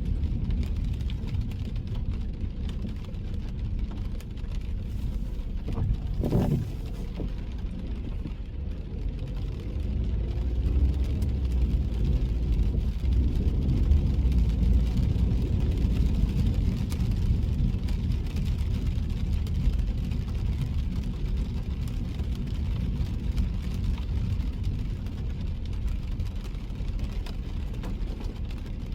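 Steady low road-and-engine rumble of a car driving in the rain, heard from inside the cabin, with a brief louder thump about six seconds in.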